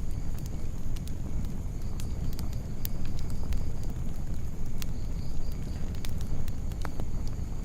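Campfire burning, the wood crackling with scattered sharp pops over a steady low rumble.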